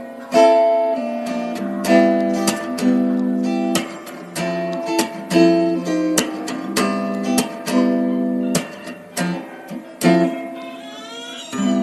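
Background music: acoustic guitar picking single notes and chords in a steady run, with a few notes gliding in pitch near the end.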